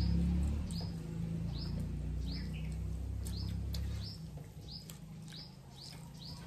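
A bird chirping repeatedly in short high chirps, about one and a half a second, over a low rumble that fades about four seconds in.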